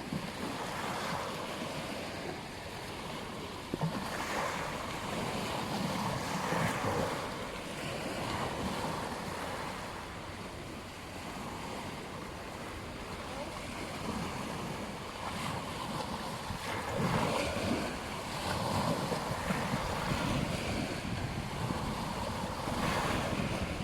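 Ocean surf on a beach: waves breaking and washing in every few seconds over a steady rush of water.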